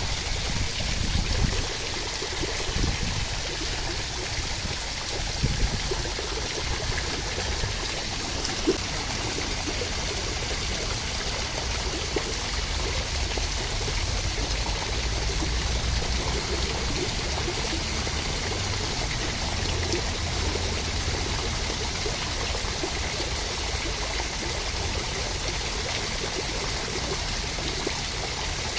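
Steady rushing water, an even wash of noise with a low rumble underneath. There are a few brief pops in the first nine seconds.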